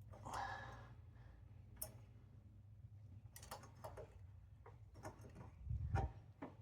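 Oil filter wrench tightening an oil filter: scattered light clicks and knocks, with a short breath near the start.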